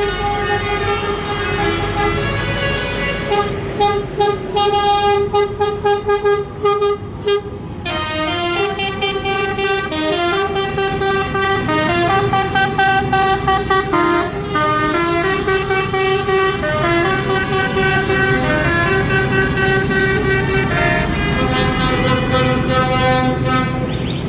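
Musical horns on a parade lorry playing a tune: a quick run of short toots, then longer held notes stepping up and down in pitch.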